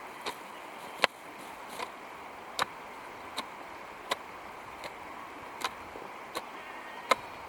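Steady, rhythmic chopping: a hand tool striking about once every three-quarters of a second, each blow a short sharp knock.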